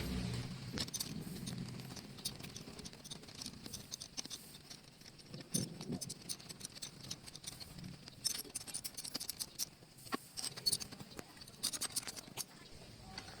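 Scattered light clicks and taps, irregular and faint, with a few slightly louder knocks around the middle and near the end.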